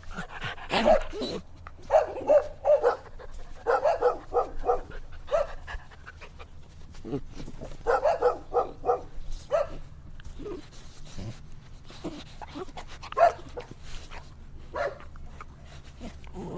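Puppies barking and yipping in short, high calls, several coming in quick runs of four or five, with quieter gaps between.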